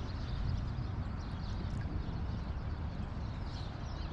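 Steady rush of flowing creek water, with a low rumble underneath.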